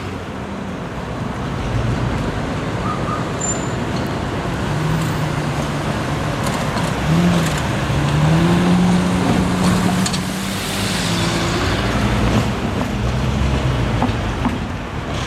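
Street traffic noise, with a motor vehicle's engine coming up and rising in pitch, loudest about seven to ten seconds in.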